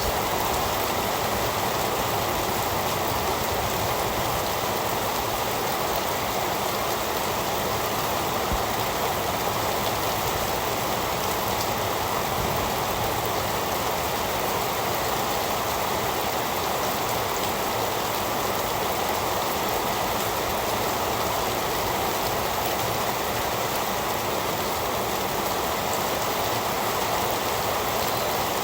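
Heavy rain falling steadily: a dense, even hiss of drops that doesn't let up.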